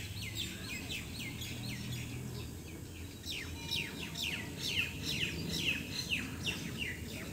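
Small birds chirping: a quick string of short, high calls that each fall in pitch, coming faster from about three seconds in, over a low steady background rumble.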